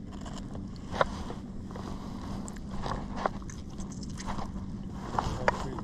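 Scattered knocks and scrapes aboard a small fishing boat, over a steady low hum.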